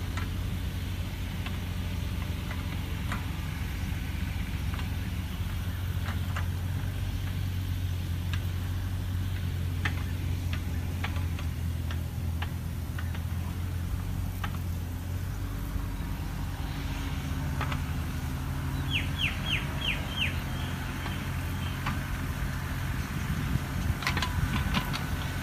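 A steady low rumble with short bird chirps scattered over it. About 19 seconds in comes a quick run of five chirps, and another cluster of chirps near the end.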